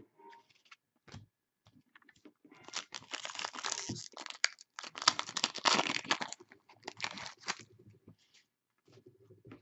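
Crinkling and tearing of a trading-card pack's wrapper, in a long rustling stretch from about two and a half seconds in and a shorter one near the end, with small clicks of cards being handled.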